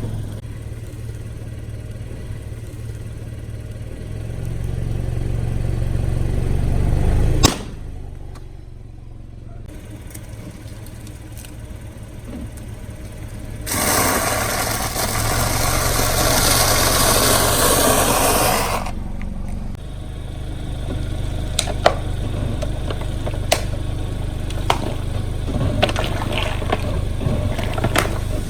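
Car engine running slowly as the car creeps over objects, with one sharp crack about seven seconds in. A spell of loud hissing comes about halfway, and scattered crackles and pops of things crushed under the tyres follow near the end.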